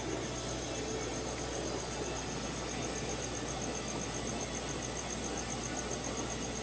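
Steady hum and hiss of aquarium equipment in a fish store, with a thin, high-pitched pulsing about six times a second running through it.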